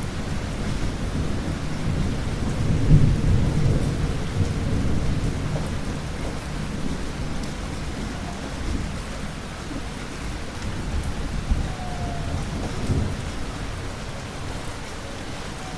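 Thunder rumbling over steady rain. The rumble swells to its loudest about three seconds in, then slowly dies away, leaving the rain with a few fainter low rolls near the end.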